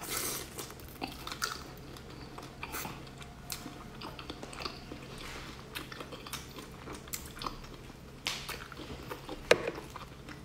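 Close-miked chewing and biting of spicy prawns, with scattered short clicks and wet smacks. A sharper click near the end is the loudest.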